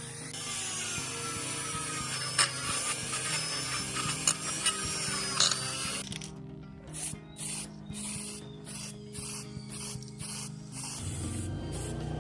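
Mechanical work sound: a steady rasping with a few sharp clicks, then a regular series of short strokes about two to three a second, over faint background music.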